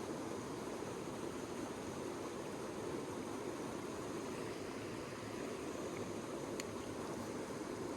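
Mountain stream rushing steadily, an even wash of water noise, with a faint click about two-thirds of the way through.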